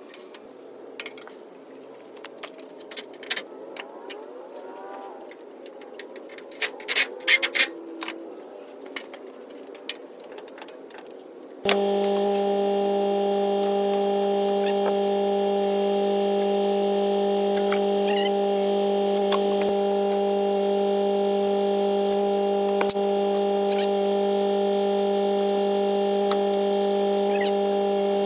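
Scattered sharp clicks and knocks, then about twelve seconds in a loud steady hum of several even tones starts abruptly and holds without change.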